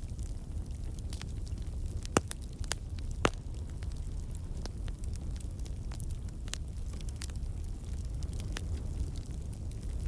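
Wood campfire burning: a steady low rumble of the flames with scattered sharp crackles and pops from the logs, the sign of water and sap in the wood turning to steam and escaping.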